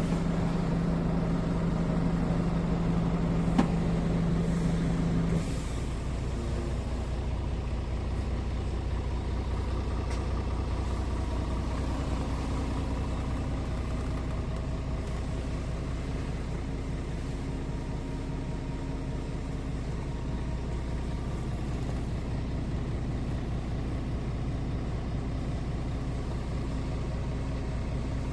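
Scania R450 truck's 13-litre inline-six diesel engine running. A steady higher note cuts out about five seconds in, leaving a steady, lower idle.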